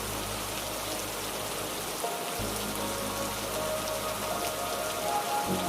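Heavy rain falling steadily, a dense even patter on surfaces.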